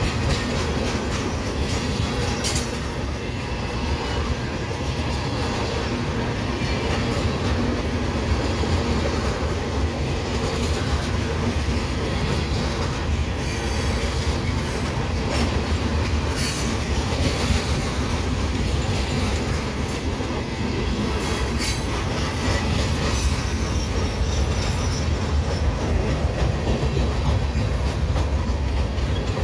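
Freight cars of a passing manifest train (gondolas, then bulkhead flatcars loaded with railroad ties) rolling by close up: a steady rumble of steel wheels on rail with a few sharp clanks.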